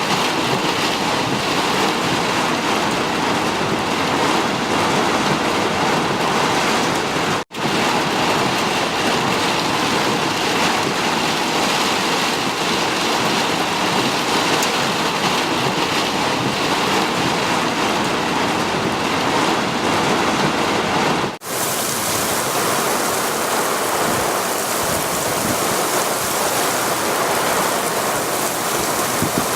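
Heavy rain falling in a steady downpour, with two momentary cut-outs; after the second, about two-thirds of the way through, the rain sounds brighter and hissier.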